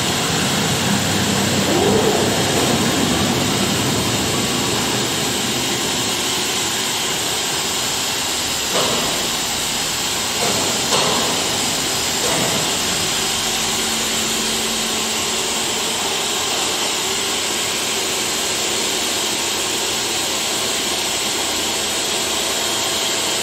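DMS CNC router running under power, a steady hiss and hum, with a brief rising whine about two seconds in and two short knocks near the middle.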